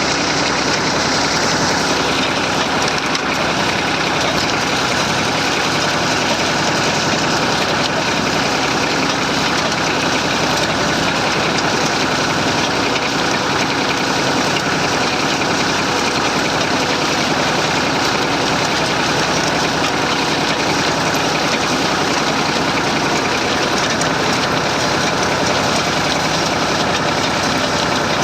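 Massey Ferguson 35 tractor engine running steadily while the tractor pulls a plough.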